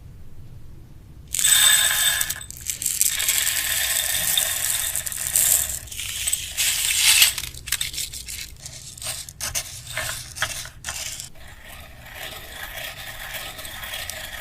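Plastic sweet packaging crinkling and rattling as it is handled, starting loud about a second in and breaking into scattered crackles and softer rustling after the middle.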